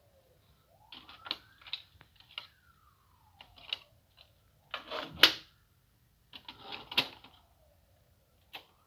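Hitachi Lo-D D-580 cassette deck's transport mechanism clicking and clunking as its controls are worked, several sharp clicks in clusters. Between them a faint whine rises in pitch and then falls, twice, as the tape spools up and slows down.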